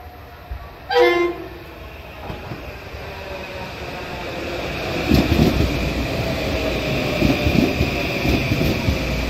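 M8 electric multiple-unit commuter train giving one short horn blast about a second in, then approaching and running past close by. Its rumble builds, with repeated wheel clatter over the rails and a steady high whine.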